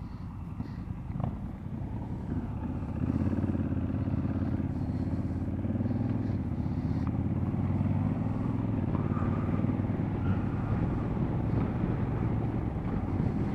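Motorcycle engine pulling away after a stop and accelerating. It gets louder about three seconds in, and its pitch rises and falls through the gears.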